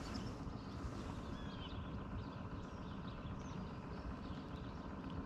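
Songbirds chirping here and there over a steady low rumble of outdoor background noise.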